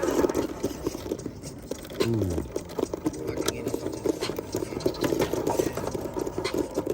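Redcat Ascent RC crawler truck's electric motor and gears whining as it crawls, with the pitch dropping steeply about two seconds in as the motor winds down, among many small clicks and knocks of the truck on rock.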